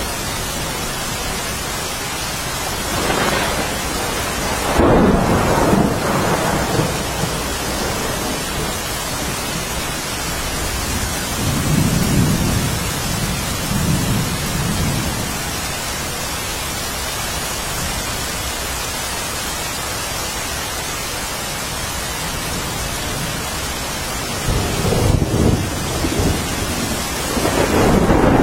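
Steady rainfall with rolling thunder: three low rumbles swell and fade, a few seconds in, around twelve seconds in, and near the end.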